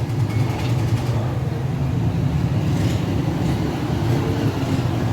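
Steady low mechanical drone of an idling engine.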